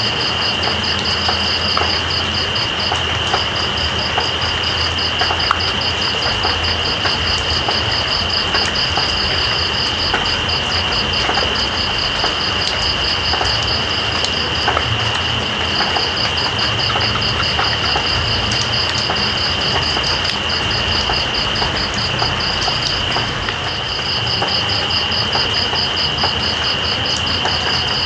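Steady rain with night insects calling over it: one insect holds a continuous high trill, while another gives a rapid, even pulsing chirp that stops briefly a few times. A low steady rumble runs underneath.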